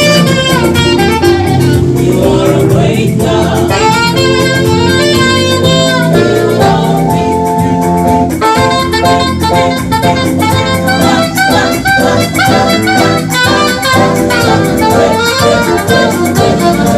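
Saxophone playing a flowing melody over a backing band with drum kit: gospel praise music.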